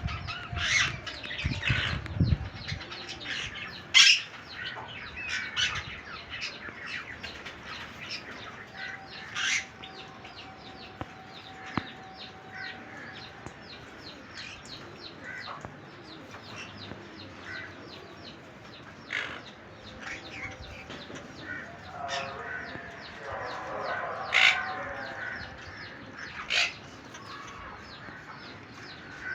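A pair of parrots chirping constantly, with occasional sharp squawks and wings flapping in the first couple of seconds.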